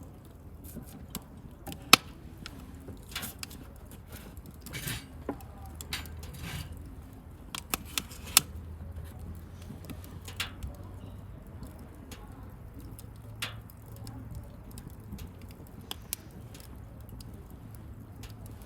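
Wood bonfire crackling: irregular sharp pops and snaps over a low steady rumble, the loudest pops about two seconds in and around eight seconds in.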